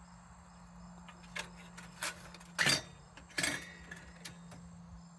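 Sheet-metal parts of a Perfection No. 530 kerosene heater being lifted out and handled, clinking and knocking against each other several times. The loudest knock comes about halfway through, followed by a short run of clinks.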